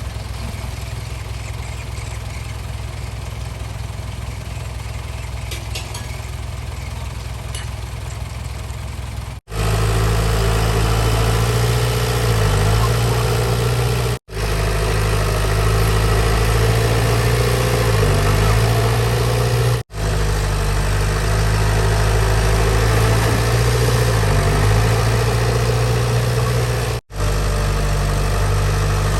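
Heavy diesel construction-machine engine running steadily. It is quieter for the first nine seconds or so, then louder, with its pitch dipping briefly every few seconds. The sound cuts out for an instant four times.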